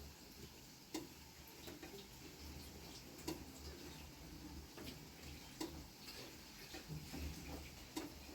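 Water dripping from a leaking roof, faint single drops falling at irregular intervals of one to two seconds.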